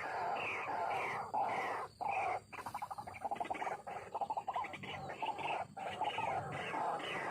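White-breasted waterhen (ruak-ruak) calling: repeated harsh notes about two a second, breaking into a fast chattering run through the middle, then back to the steady repeats.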